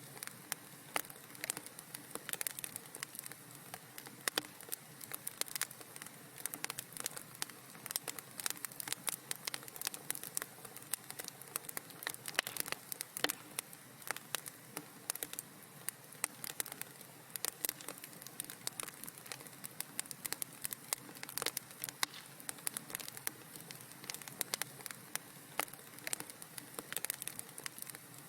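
Wood fire crackling in a fireplace: a steady soft hiss under many quick, irregular pops and snaps.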